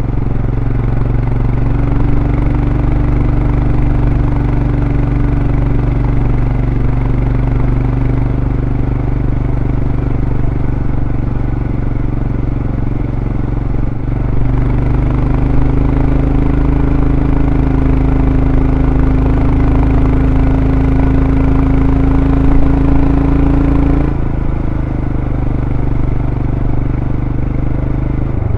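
Royal Enfield Scram 411's single-cylinder engine through its stock exhaust, running under way. There is a short break in the engine note about halfway through. After it the pitch climbs slowly, then falls off near the end as the throttle eases.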